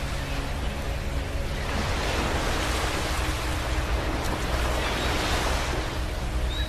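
Ocean surf: a wave washes in, the rushing noise swelling from about two seconds in and easing off near the end, over the steady low rumble of the sea.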